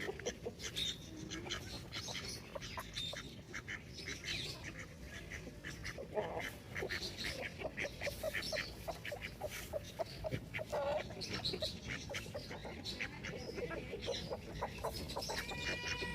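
Free-range chickens calling: scattered short clucks and high chick peeps, with a longer pitched call near the end.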